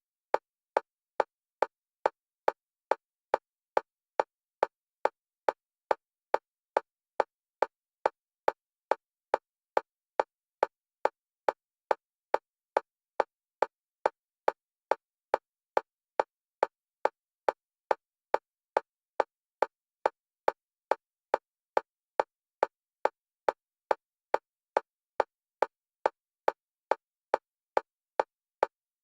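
Fast, steady metronome clicks of a single pitch for EMDR bilateral stimulation, alternating between the left and right stereo channels, about two clicks a second, all at the same level.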